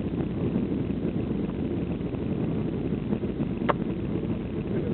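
Steady cabin noise of a Boeing 737-800 in flight on the landing approach: engine and airflow noise heard from inside the cabin, with one short click about three and a half seconds in.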